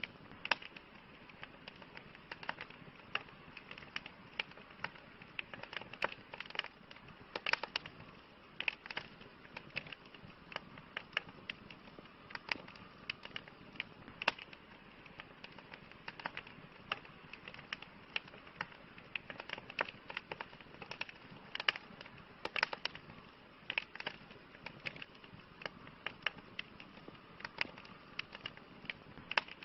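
Campfire burning with irregular sharp crackles and pops of burning wood over a soft steady hiss.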